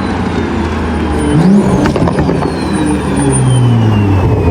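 BMW M340i's turbocharged inline-six revving, its pitch rising about a second and a half in and dropping near the end, with a thin high turbo whistle that starts with the rev and slowly falls in pitch.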